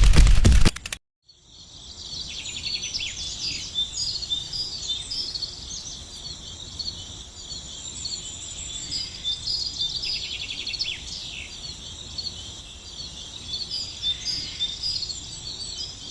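Birds chirping in a dense chorus with insects trilling, a steady rural ambience; it starts just after a sudden cut about a second in.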